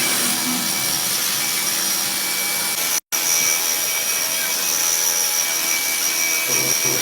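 Steady, loud hissing machine noise with a thin high whine over it, broken by a brief dropout about three seconds in.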